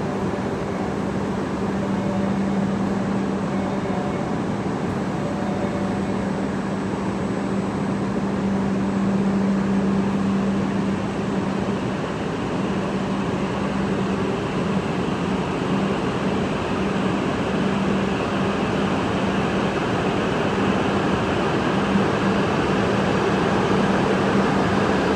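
Hayabusa Shinkansen train pulling out of the station: a steady low electric hum with a rushing noise that slowly grows as it gathers speed.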